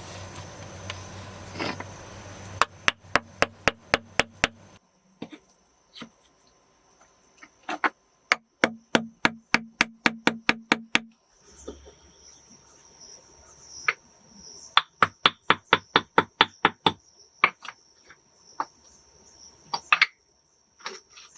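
Runs of sharp, rapid hammer blows, about four or five a second and eight to ten in a run, with scattered single knocks between, over a steady chirring of crickets.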